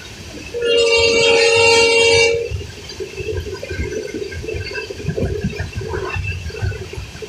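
Train horn sounding one steady blast of about two seconds, over continuous rumbling noise.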